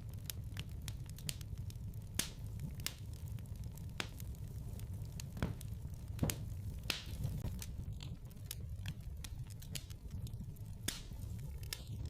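Wood fire crackling in a fireplace: irregular sharp pops and snaps over a low, steady rumble of the flames, with a few louder pops about two, six and eleven seconds in.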